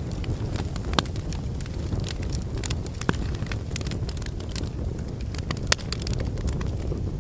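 Wood fire in a fireplace: logs burning with a steady low rumble and irregular sharp crackles and pops, a few louder snaps about one, three and six seconds in.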